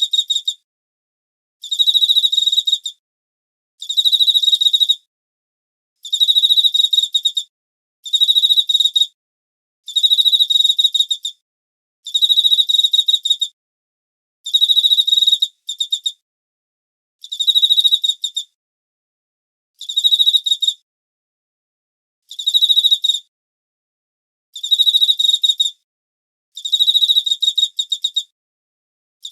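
A high, even-pitched chirping trill made of rapid pulses, each trill about a second long, repeating about every two seconds, with dead silence between.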